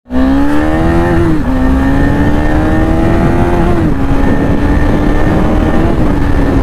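Motorcycle engine pulling through the gears: its pitch climbs, then drops sharply as it shifts up, twice, about a second in and again near four seconds, then runs steadier.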